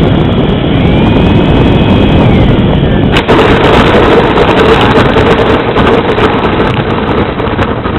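Cessna 310 landing: loud engine and airflow noise, which about three seconds in changes abruptly to a rough, crackling rumble with a steady hum.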